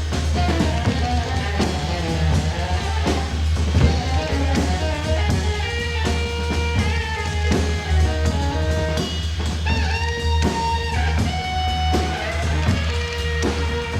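Live rock band playing an instrumental passage, with electric guitar and drum kit over a steady low bass and sustained melodic lines.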